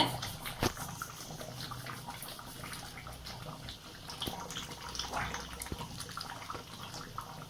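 Thick butter chicken gravy simmering in the pan, bubbling with soft scattered pops.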